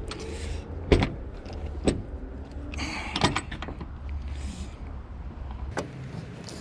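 Hood-latch hardware being worked by hand while a tight-fitting aftermarket latch is test-fitted: sharp clicks and knocks about four times, the loudest about a second in, with a brief scraping sound around the middle, over a steady low hum.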